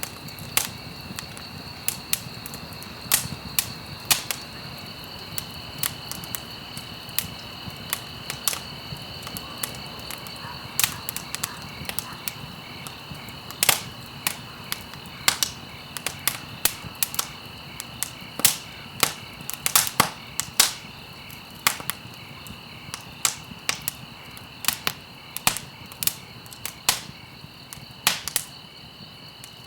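Campfire crackling, with sharp irregular pops and snaps, a few a second, over a low steady hiss.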